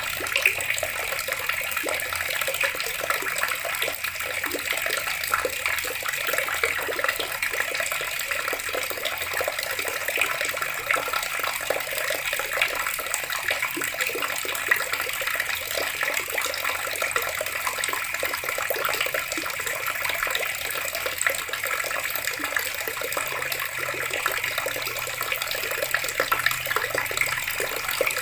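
Water running steadily from a tap, splashing without pause.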